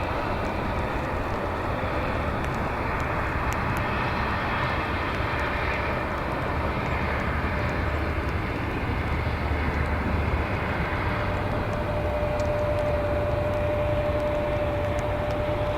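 Airliner engine noise, a steady rumble with a hiss over it; a thin steady tone comes in about two-thirds of the way through.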